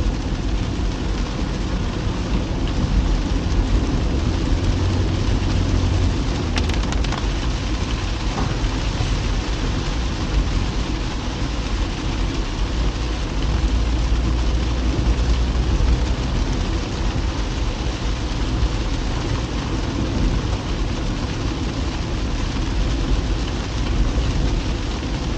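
A car driving in rain, heard from inside the cabin: steady road and tyre rumble with rain hitting the car. There is a single short click about six seconds in.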